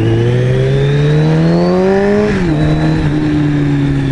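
Kawasaki Z900RS's inline-four engine, fitted with a K-Factory titanium full exhaust, rising in revs under acceleration. A little over two seconds in it drops sharply at an upshift, then runs on steadily in the next gear.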